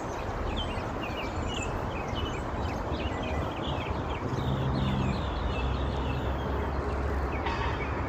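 Birds chirping in quick short calls over a steady low rumble, with a low hum joining in about halfway through.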